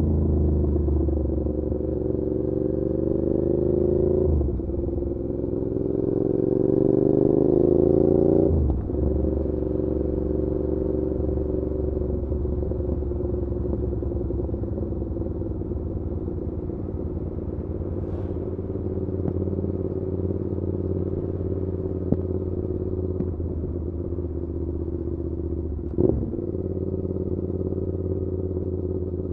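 Suzuki SV650's V-twin through an SC Project exhaust, pulling through the gears with the revs rising twice and upshifts about four and eight seconds in. It then cruises at steady revs, with a short click and a brief break in the engine note near the end.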